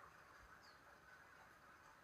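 Near silence: faint outdoor ambience with a steady hiss and one faint, short, high falling chirp about two-thirds of a second in.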